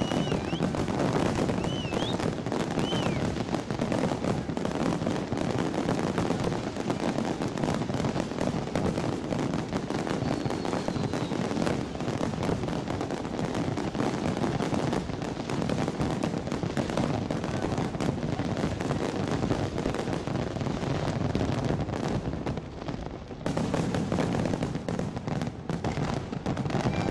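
Fireworks going off in a dense, continuous barrage of rapid bangs and crackling. A few whistles rise in pitch in the first few seconds, and there is a short lull about 23 seconds in before the barrage resumes.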